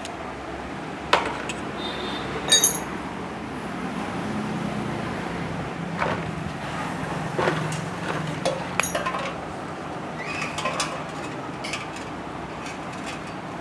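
Scattered metallic clinks and taps of hand tools on the parts of a motorcycle front fork being taken apart, a few ringing briefly. A steady low hum runs underneath through the middle.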